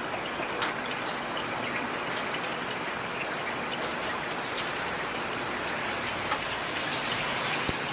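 Steady rain: a constant patter of drops with a few single louder drop hits standing out now and then.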